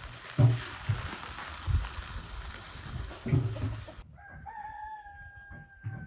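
A few dull thumps over a steady hiss, which cuts off suddenly about four seconds in; then a rooster crows in one long, held call.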